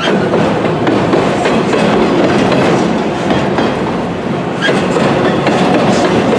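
Freight train of autorack cars rolling past, steel wheels clicking over the rail joints in a steady rumbling run.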